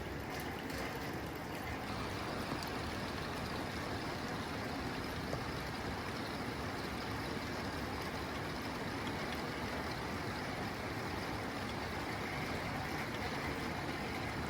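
Rain falling steadily on a tin roof, an even patter and hiss with a few faint sharper ticks in the first two seconds.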